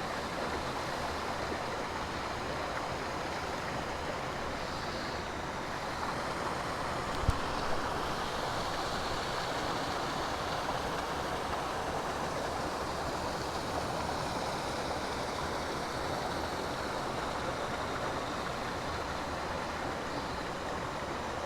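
Boulder-strewn mountain stream flowing over rocks: a steady rush of water, with a single brief knock about seven seconds in.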